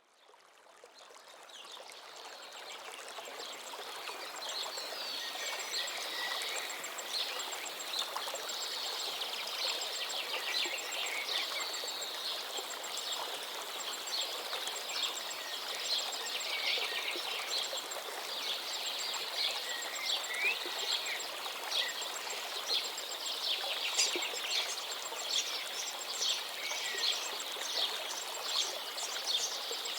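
A chorus of birds chirping and singing over a steady rush of flowing water, fading in from silence over the first few seconds. A fast, even, high-pitched ticking runs along in the background.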